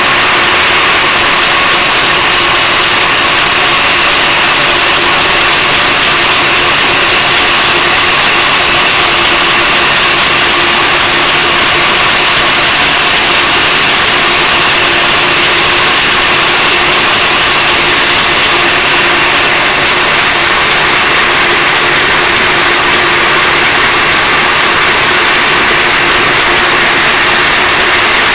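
Trabant's air-cooled two-cylinder two-stroke engine idling steadily, with no revving or change in pitch. This is the idle that the owner presents as an idling problem.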